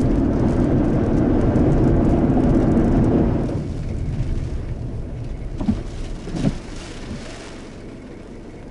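Heavy thunderstorm rain and wind on a vehicle, loud for about the first three seconds, then easing off.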